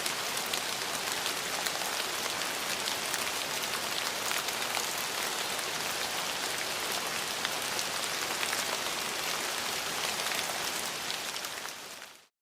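Steady rain falling, a dense hiss with many small drop ticks, fading out quickly near the end.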